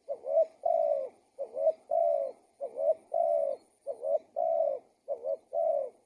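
Spotted dove (tekukur) cooing steadily. It gives five two-part phrases, each a short dipping coo followed by a longer held coo, about one phrase every 1.2 seconds.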